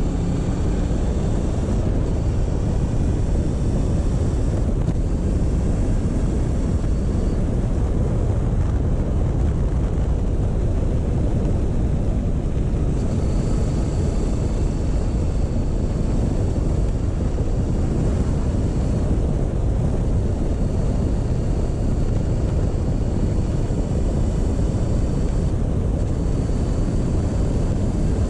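Motorcycle riding along at a steady pace: a constant rush of wind over the microphone with the engine running underneath.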